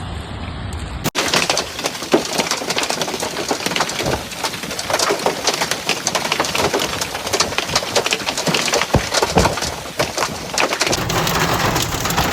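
Hailstones pelting down: a dense, irregular patter of many sharp hits on hard surfaces. It starts suddenly about a second in, after a low steady hum, and a low hum comes back under it near the end.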